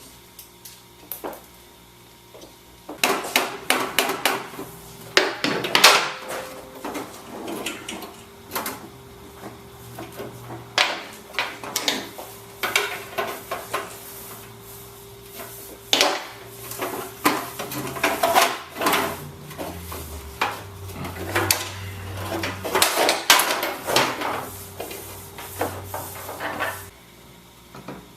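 Irregular clattering knocks and bangs of hard objects being handled and set down, in bursts, over a faint steady hum.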